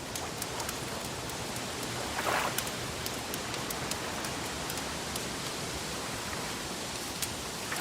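Crackling wood fire: scattered sharp snaps and pops over a steady hiss, with a brief louder hiss about two seconds in.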